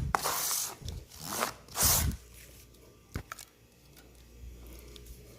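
A spatula scraping acrylic putty across cardboard, a few rasping strokes in the first two seconds, then quieter with a single click about three seconds in.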